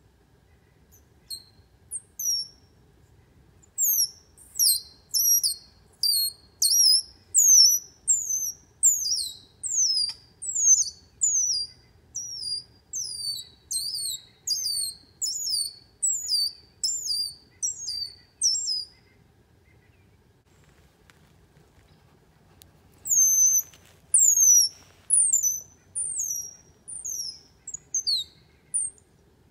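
A bird calling with quick, high-pitched chirps that fall in pitch, repeated a little under twice a second. The chirps stop for a few seconds a little past the middle, then start again.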